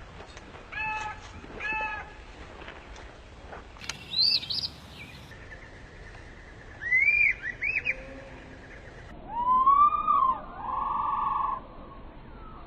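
Birds calling one after another over a steady background hiss: short chirps, a few rising whistled notes, then a louder swooping call and a buzzy held note near the end.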